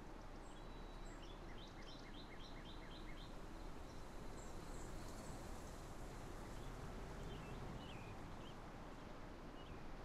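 Faint bird chirps over a steady background hiss: a quick run of about seven short chirps about two seconds in, then a few scattered chirps later.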